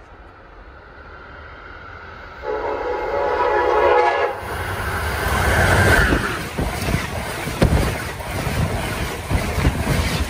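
A train approaching with a rising rumble, sounding one horn blast of about two seconds, then passing close by with rapid clicking of its wheels over the rail joints.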